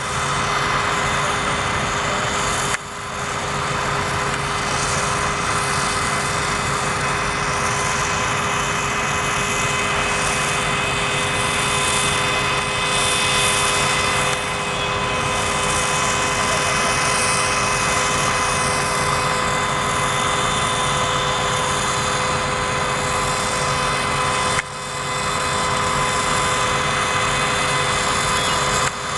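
Fire apparatus running steadily under way, a loud engine sound with constant whining tones. It breaks off sharply for a moment about three seconds in and again near the end.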